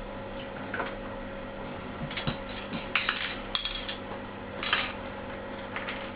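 A few scattered light clicks and clinks of small hard objects being handled, over a steady low hum.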